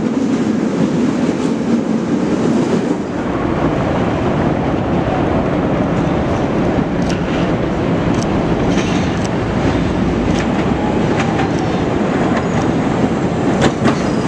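Chicago 'L' rapid-transit train running on elevated track: a steady rumble of wheels and motors, heavier after a cut about three seconds in as the train approaches, with wheels clicking over rail joints in the middle and again near the end.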